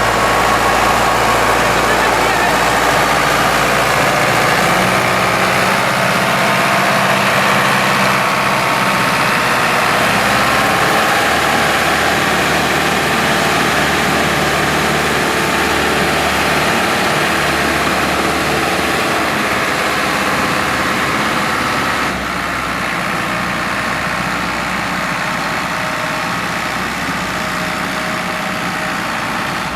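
Tractor diesel engine running steadily, with a slight drop in loudness about three quarters of the way through.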